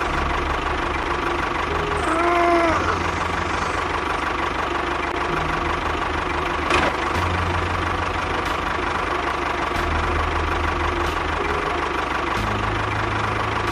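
A motor running steadily, with a low hum that shifts a little every couple of seconds and a few short chirps about two seconds in.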